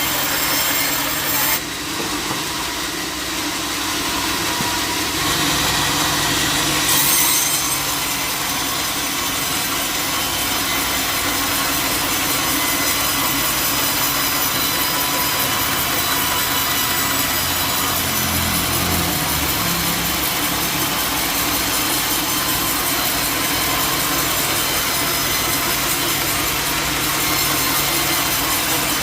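Sawmill blade cutting steadily through a log, with the mill's motor running underneath.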